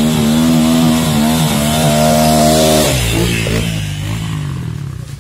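Trail motorcycle engine revving hard and held at high revs. About three seconds in the revs drop and the sound fades away.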